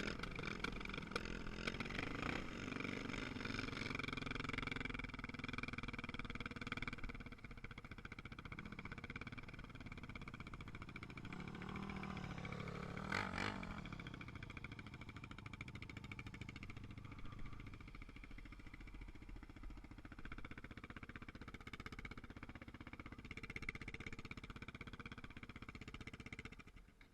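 Motorcycle engine running steadily, somewhat louder in the first few seconds, then cutting off suddenly near the end.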